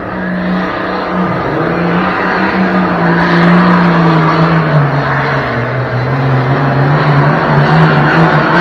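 Super Farm class pulling tractor's diesel engine running flat out under load down the track, getting steadily louder. Its pitch sags in steps as the sled loads it down.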